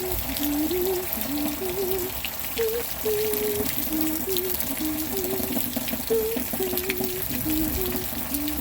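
Steady rain falling and water trickling and pouring, under a slow background melody of held notes that step up and down.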